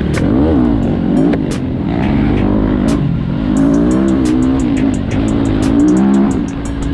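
Dirt bike engine revving as it rides a rough forest trail, its pitch repeatedly rising and falling with the throttle, with many short sharp clicks over it.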